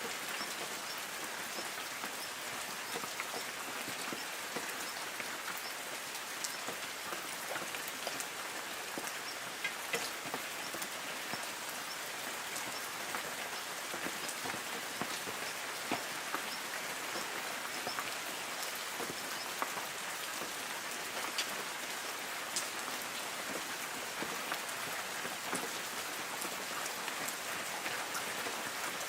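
Light rain falling on forest foliage: a steady hiss of rainfall with many separate drops ticking sharply on leaves throughout.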